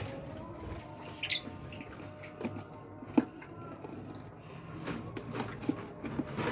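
Lovebirds in their cage or nest boxes making light scratching and tapping sounds, with one short high chirp about a second in.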